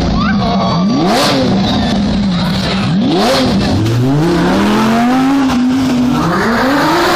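Supercar engines revving as rally cars pull away: two sharp throttle blips about two seconds apart, each climbing and falling back to idle, then a longer, slower climb in revs and another rise near the end.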